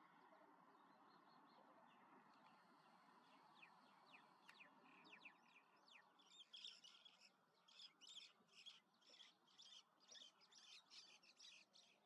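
Faint bird calls over low background noise. A few thin, quick downward-sliding notes start about three or four seconds in. From about six seconds a rapid string of sharp chirps follows, two or three a second, stopping just before the end.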